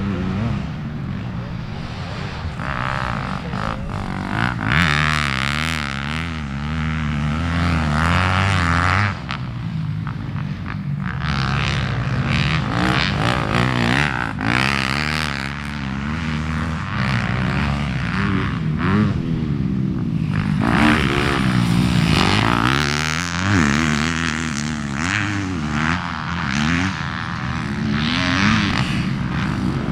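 Motocross bike engine revving up and falling back again and again as it is ridden round the track, with a rushing noise over it at times.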